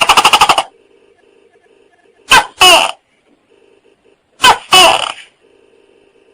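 Tokay gecko calling. It opens with a quick rattle of about ten clicks, then gives its two-note 'to-kek' call twice, about two seconds apart.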